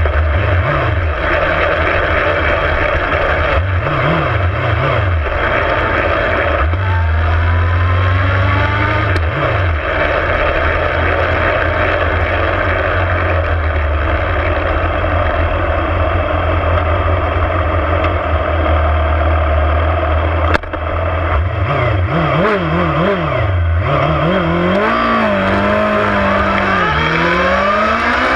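Superbike engine at racing speed, revving up and down through the gears, mixed with a steady rushing noise. Engine speed holds high through a long middle stretch. A sharp click about 20 seconds in is followed by several quick rises and falls in revs, and the engine climbs again near the end.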